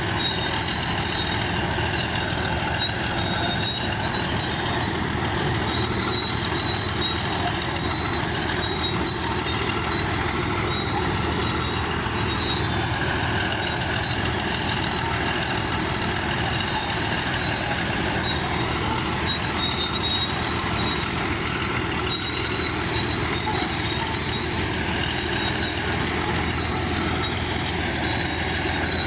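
Bulldozer running steadily at work: diesel engine and steel tracks, with a thin high squeal on top.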